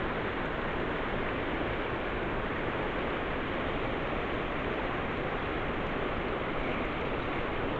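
Fast-flowing river water rushing steadily, an even unbroken noise.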